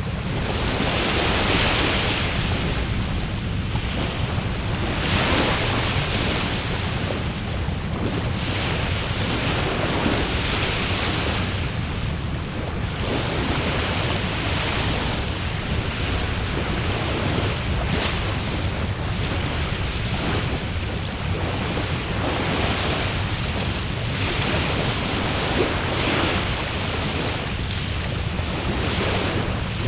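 Outdoor wood fire in a fire pan, heard under a loud, steady rushing that swells and fades every couple of seconds, with a thin, steady high whine above it and only a few faint clicks.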